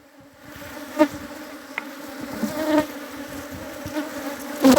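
Honeybees buzzing steadily around an opened hive whose frames are being inspected, with a short knock about a second in and a louder one near the end.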